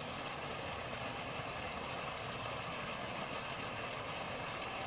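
A steady engine hum, running evenly at idle with no change throughout.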